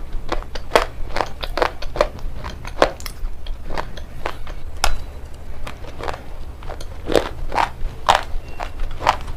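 Hard pieces of shale stone being bitten and chewed close to the microphone: sharp, irregular crunches, two or three a second, over a steady low hum.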